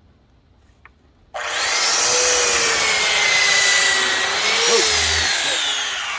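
Electric power sander fitted with 80-grit sandpaper switched on about a second and a half in and sanding wood, a loud steady whine over coarse scraping; the motor's pitch sags slowly and rises again near the end.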